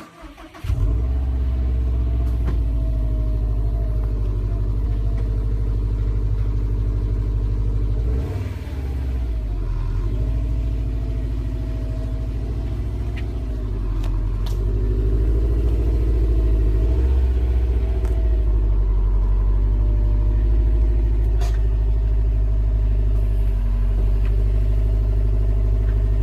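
2015 Subaru STI's turbocharged 2.5-litre flat-four idling steadily through its stock exhaust, a low rumble whose pitch wavers briefly about eight seconds in and again about halfway through.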